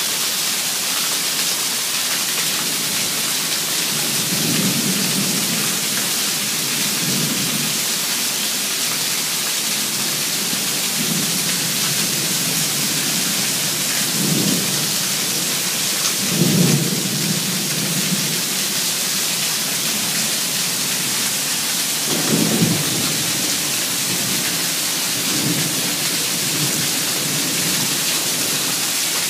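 Heavy downpour: steady rain hiss, with water pouring off an overflowing roof gutter and splashing onto the ground. Low rumbles come and go several times, the strongest about 16 and 22 seconds in.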